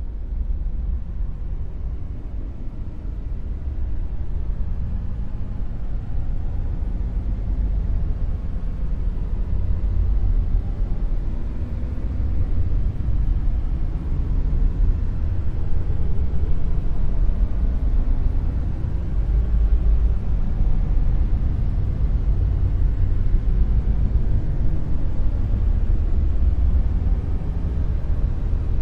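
"Dark noise" sound effect: a deep, steady rumbling noise with most of its weight in the bass and little treble, swelling slightly over the first ten seconds or so and then holding level.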